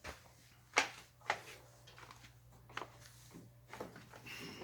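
A few scattered sharp clicks and knocks, the loudest about a second in, over a faint steady hum: handling noise inside a car's cab.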